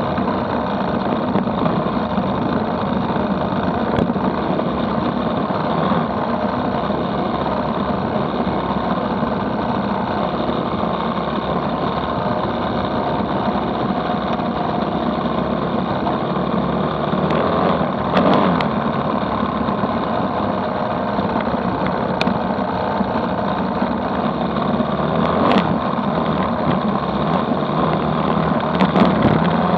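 Dirt bike engine running steadily under way, heard from on the moving bike, with a few sharp clicks here and there.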